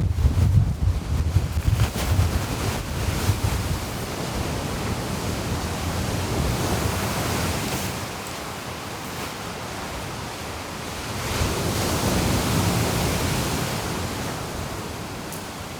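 Sea waves washing onto the shore in strong wind, with wind gusts buffeting the microphone for the first few seconds. A wave swells up and washes in again about two thirds of the way through.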